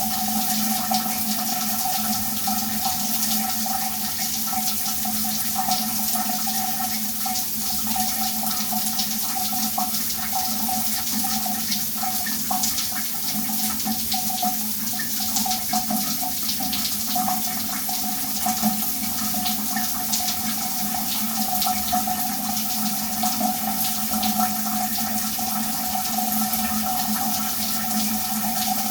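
Shower running: a steady spray of water falling and splashing, even and unchanging.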